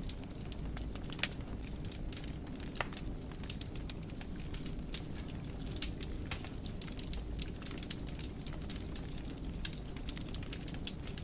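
Wood fire in a fireplace crackling: frequent sharp irregular pops and snaps over a steady low rumble of the flames.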